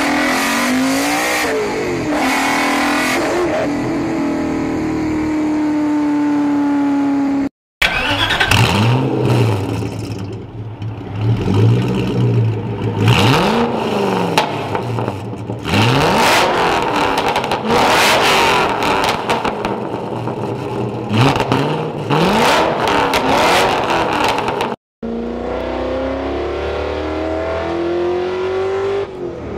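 Ford GT V8 engines in three clips. First, a light-blue GT40-style car accelerates hard through quick upshifts. Then a 2005–06 Ford GT's supercharged 5.4-litre V8 is revved repeatedly at a standstill, each blip rising and falling, echoing off the concrete of a parking garage. Last, a Ford GT accelerates with the engine pitch rising steadily, heard from inside the cabin.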